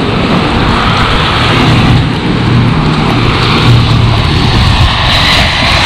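Road traffic on a flooded, slushy street: a car driving past, its tyres hissing through standing water, with a steady low engine hum.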